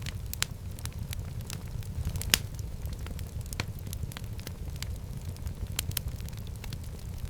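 Wood fire burning in a fireplace: a steady low rumble of flames with irregular sharp crackles and pops, one louder pop a little past two seconds in.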